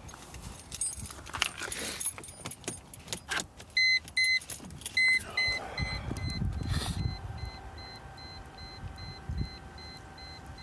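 Car keys jangling and clicking, then two loud beeps and the car's warning chime beeping steadily about twice a second, with a faint steady hum joining in partway through.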